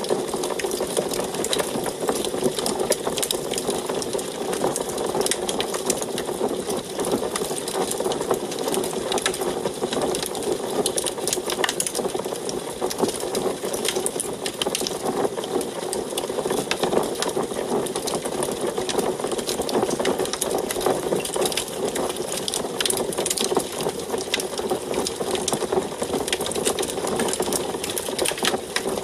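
Wood fire burning in an antique wood stove: a steady rush of flame under dense, irregular crackling and popping.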